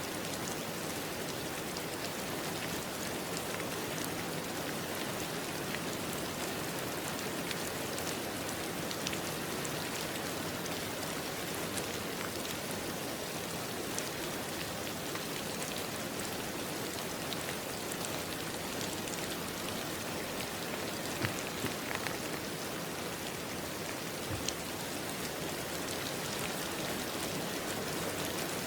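Steady rain falling, with a few louder single drops ticking now and then.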